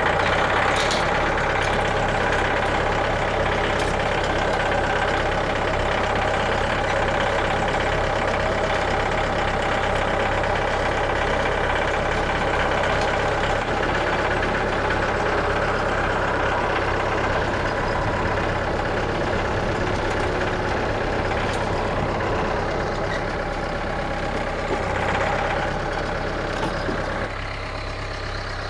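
An engine running steadily, getting somewhat quieter about 27 seconds in.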